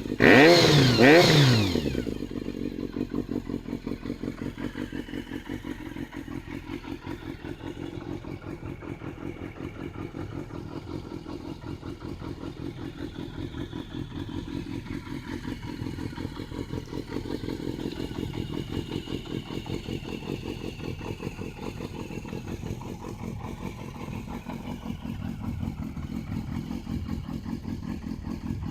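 Motorcycle fitted with an RPM titanium aftermarket exhaust, revved hard in the first couple of seconds, the pitch rising and falling back. It then settles into a steady, pulsing idle.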